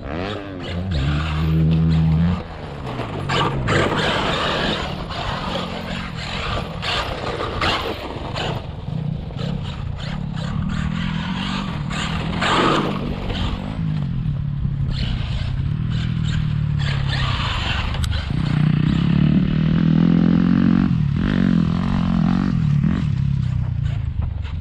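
Brushless electric motor of a Traxxas RC monster truck whining up and down in pitch with the throttle, over tyres scraping and skidding on the ground and the clatter of the truck bouncing.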